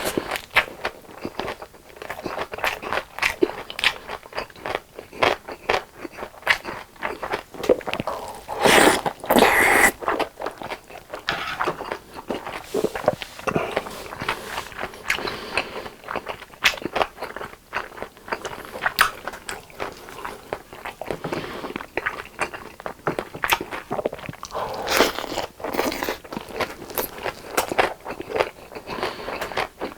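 Close-miked chewing and crunching of a mouthful of tteokbokki and gimbap: a steady run of wet clicks and crunches, with a louder stretch about nine seconds in.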